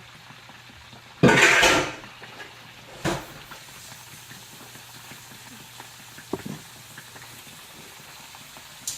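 Kitchen dishes and utensils handled: a loud clatter or scrape of cookware lasting under a second, about a second in, then a sharp knock and a few lighter clicks, over a faint steady hum.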